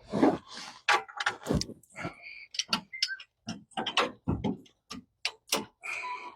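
Ratchet wrench clicking in short, irregular strokes with light metallic clinks, as spark plugs are worked loose.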